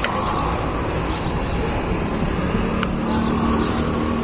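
Budgerigars chirping faintly over a steady low hum like a vehicle engine.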